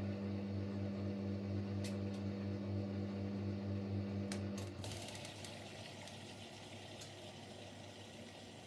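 Siemens Siwamat Plus 574 washing machine: a steady mains hum, typical of the drain pump, with a couple of clicks, stops abruptly about halfway through. The water inlet valve then lets water hiss in as the fourth rinse, with fabric softener, begins.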